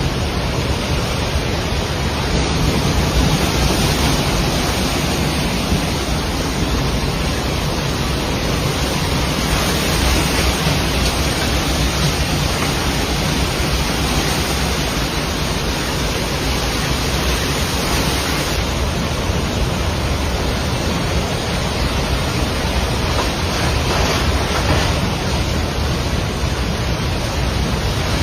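A river in flash flood, its water rushing loud and steady.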